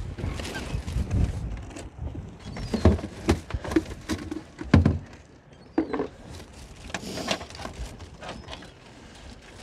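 Irregular knocks, clicks and clatter of a lobster pot and its catch being handled on a boat, over a steady low wind rumble on the microphone.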